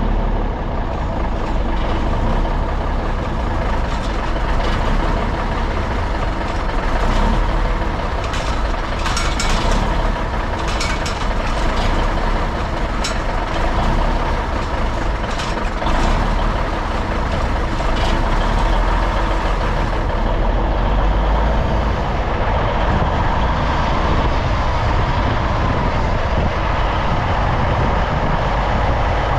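Cummins diesel engine in an old Brockway truck running steadily at idle after decades sitting dormant. A few sharp clicks or rattles come through over the middle stretch.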